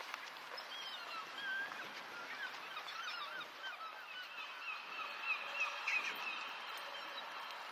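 A flock of birds calling, many short chirping and squawking calls overlapping, with one longer held call in the middle.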